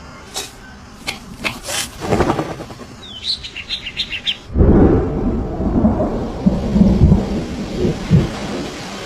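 Scattered taps and a quick run of short high bird chirps, then, about halfway through, a sudden loud, low, rumbling thunderstorm sound of thunder and rain.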